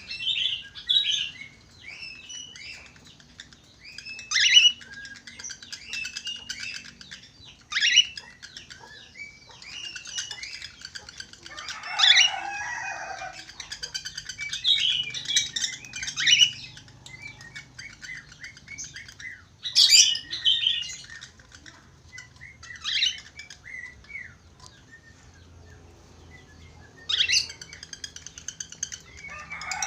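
Budgerigars chattering and warbling: a busy, continuous run of short chirps and whistles, broken every few seconds by a louder, sharper call.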